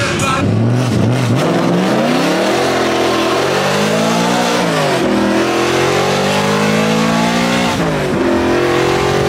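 Car engine accelerating hard through the gears: its pitch climbs, drops sharply at a shift about five seconds in, then climbs again and drops at a second shift near the end.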